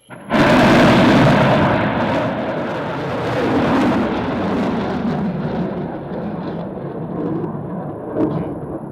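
SS-520 solid-fuel sounding rocket igniting at zero and lifting off: a sudden loud roar from the solid rocket motor sets in about a third of a second in, then slowly eases off.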